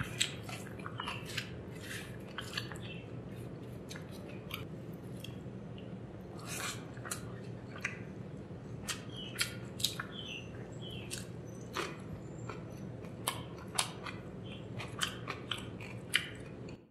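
Close-miked chewing of a mouthful of curry-soaked rice, with frequent short wet mouth clicks and smacks over a steady low hum. Fingers squish and mix the rice on the plate between bites.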